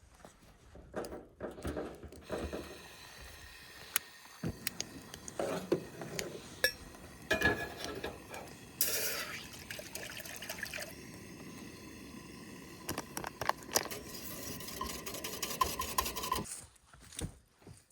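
Camp coffee being made: metal and glass dishes clinking and knocking, with liquid poured into a cup.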